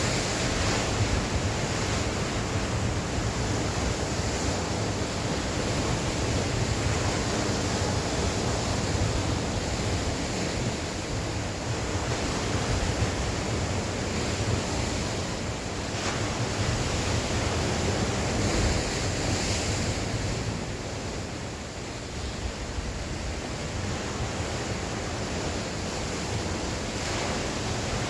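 Sea waves breaking and washing on the shore, a continuous surf rumble that swells and eases, with wind buffeting the microphone.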